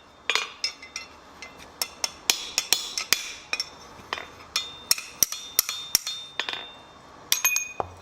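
Blacksmith's hammer striking steel on an anvil in a quick, uneven series of blows, about two to three a second, each with a short metallic ring.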